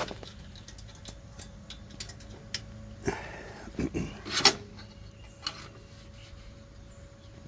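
Delta 28-180 bench band saw's 1/5 HP motor running free with a steady hum, the blade turning without cutting, at a level that is not very loud. A few sharp knocks and clatters come about three to four and a half seconds in.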